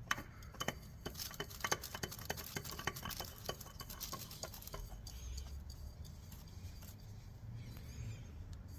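New oil filter being threaded onto a motorcycle engine by hand: a run of small, irregular clicks and scrapes for about five seconds, then softer handling noise.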